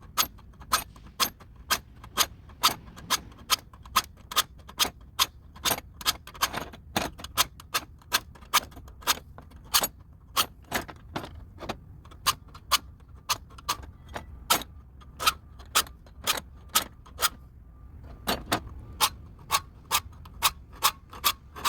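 Hand file scraping on steel in short, regular strokes, about two a second, squaring up the bent tabs on a washing machine's center shaft so they will grip the spin drive block. The strokes pause briefly a few seconds before the end, then resume.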